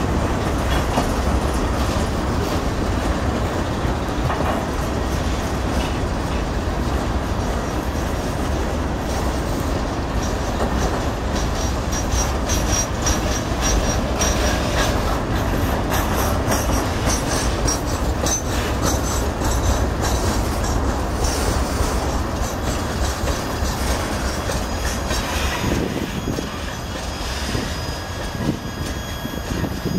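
Freight train of boxcars rolling past: a steady rumble of steel wheels on rail, with rapid clicking over rail joints and faint high wheel squeals at times. It eases a little near the end as the last cars pass.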